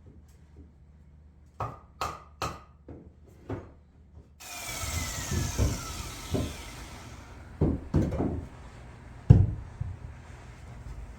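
Framing lumber knocking as it is handled and fitted. A power saw then cuts wood for about two seconds, its whine dropping as it runs down. Several more wooden knocks follow, then one heavy thump.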